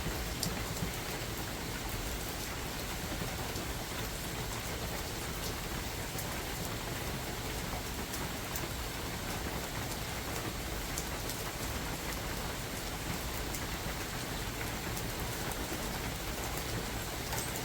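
Steady rain falling in a forest, a dense even patter with scattered sharp drop ticks standing out.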